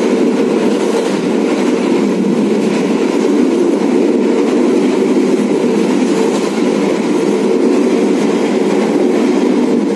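Steady running noise of the Argo Cheribon passenger train at speed, heard inside its executive-class coach: a constant low rumble of wheels on rail and the moving carriage.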